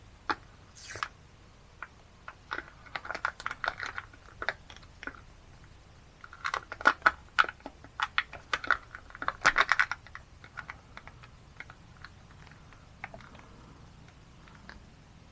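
Irregular plastic clicks and crinkling from a bottle of gear oil being handled as its seal is broken open, coming in two busy spells, the second the louder.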